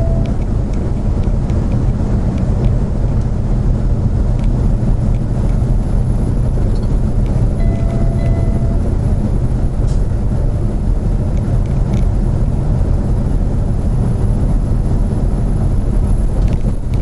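Steady road and engine noise heard from inside a car's cabin on a highway. A brief faint tone sounds about halfway through.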